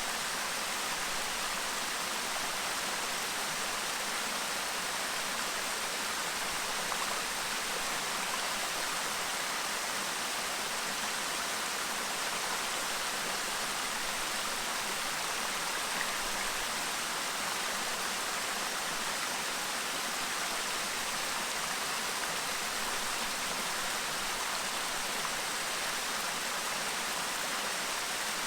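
Clear mountain stream babbling and rushing over rocks: a steady, even water sound.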